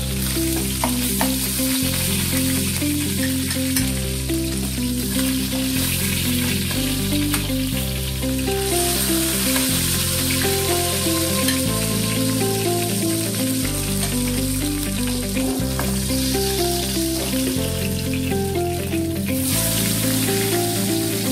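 Quails sizzling and crackling in hot oil in a frying pan as they are turned and lifted out with a spoon. The sizzle sits over background music with a repeating bass line.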